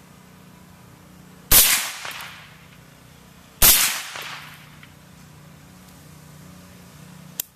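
Two suppressed shots from a 20-inch POF .308 rifle wearing a Surefire FA762K suppressor, about two seconds apart, each trailing off in an echo. A short sharp click comes near the end.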